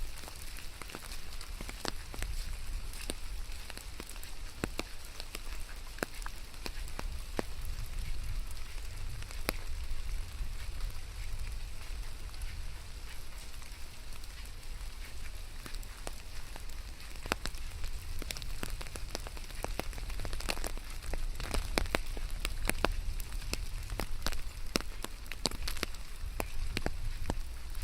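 Rain falling steadily, with many individual drops landing close by as sharp, irregular ticks over an even patter and a constant low rumble.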